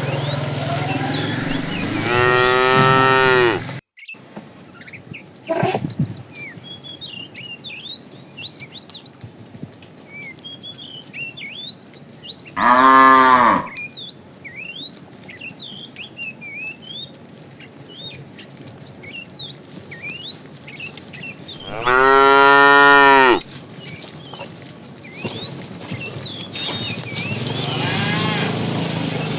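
Cow mooing: three loud, drawn-out moos about ten seconds apart, then a fainter one near the end, with small bird chirps in between.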